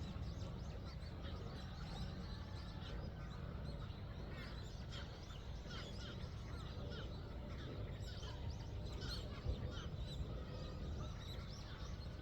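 Many birds calling at once: a dense mix of short, high chirps and calls over a steady low rumble.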